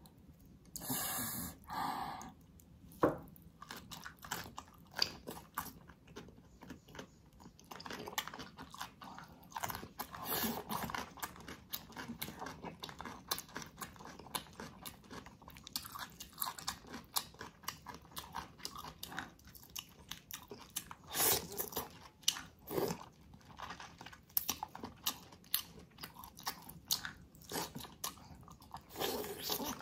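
Close-miked eating: wet chewing, biting and lip smacks as a person eats gelatinous braised ox feet and vegetables, with irregular clicks and a few louder bites.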